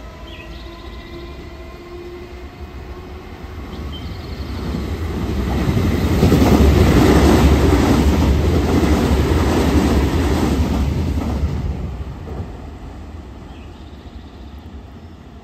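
A Nankai 50000 series "rapi:t" limited express train passing through the station at speed without stopping. Its wheels rumble and clatter on the rails, building from about four seconds in, loudest for about five seconds as the cars go by, then fading as it moves away.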